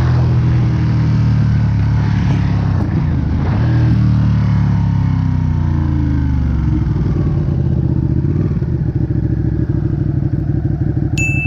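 Ducati Panigale 959's Superquadro V-twin engine comes down in revs, its pitch falling over a couple of seconds, then settles into idle with a fast, even pulsing beat. A thin high steady tone starts just before the end.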